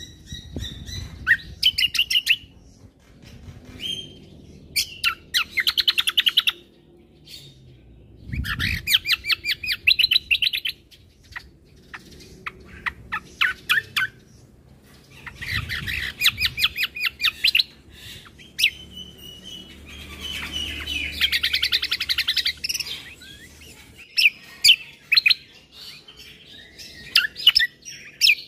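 Kecial kombo (cucak kombo) songbird singing: loud bursts of rapid high trilling, each a second or two long and repeated every few seconds, with single sharp chirps in between.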